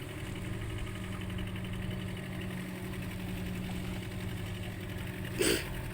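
Small fishing boat's engine running steadily with a low, even hum. A brief louder noise burst comes near the end.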